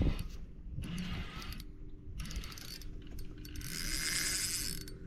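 Fishing reel ratcheting in bursts while a hooked fish is played: a short burst about a second in, another a little later, and a longer, louder run near the end.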